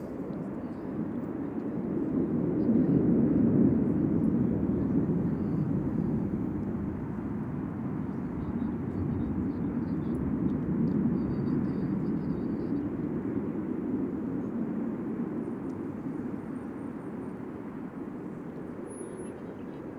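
Jet aircraft flying past, a deep, rough engine roar that swells to its loudest about three seconds in and then slowly dies away.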